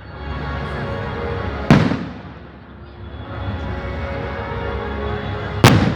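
Firecrackers going off: two loud bangs, one just under two seconds in and a louder one near the end, each fading away after the crack. Music plays in the background between them.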